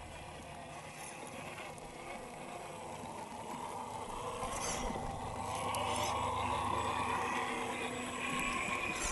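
Small electric motor and gearbox of a WPL B36 Ural 6x6 RC truck whining steadily as it drives, getting louder about halfway through, with a few light clicks and crunches from the wheels on the ground.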